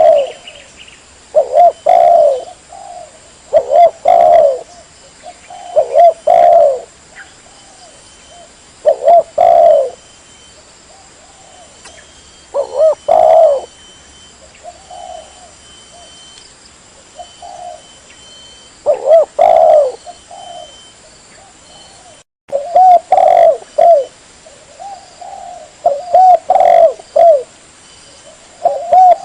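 Spotted dove cooing: repeated phrases of low, pitched coo notes, a phrase every two seconds or so, played as a lure call. The sound cuts out briefly a little over 22 seconds in.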